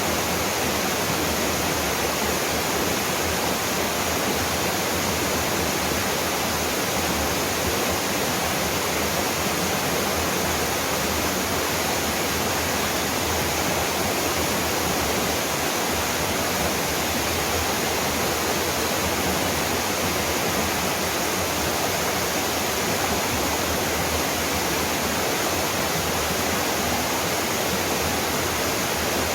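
Mountain waterfall pouring steadily, a constant, even rushing of falling water.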